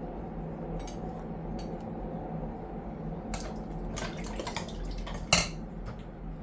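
Pots and utensils clattering: scattered light clinks, then one louder clank about five seconds in, over a steady low hum.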